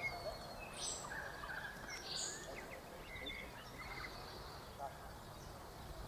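Faint background ambience with a few short, distant bird chirps and calls, the first about a second in.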